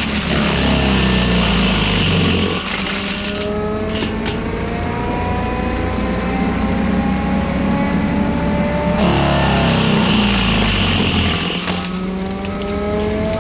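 Forestry mulcher running hard: a diesel engine with tones slowly rising in pitch, and two spells of the mulching head grinding through brush, one at the start and one about two-thirds of the way in.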